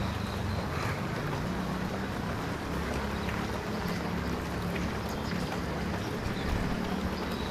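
Steady outdoor wash of rain noise with a low, constant engine hum underneath.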